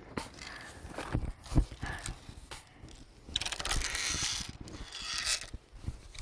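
Irregular crunching steps and clicks of someone walking through dry brush, with a louder rustling stretch about midway.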